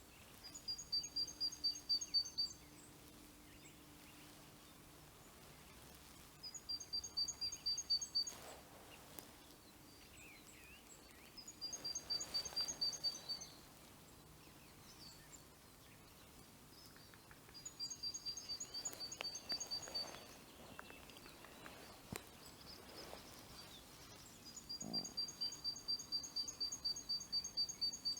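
Small songbird singing: a high, rapid trill of about five evenly spaced notes a second, lasting around two seconds and repeated five times at intervals of five to six seconds.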